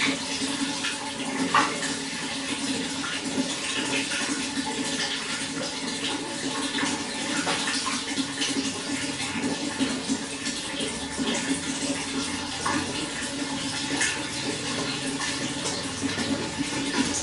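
Running water flowing and splashing steadily, with many small splashes over a continuous rush.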